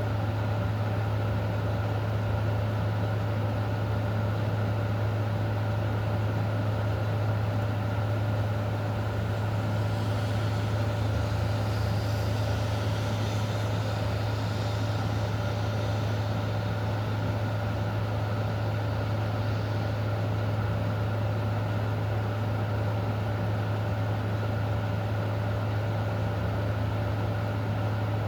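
Steady hiss of a rain storm over a constant low hum. The hiss grows a little brighter for several seconds in the middle.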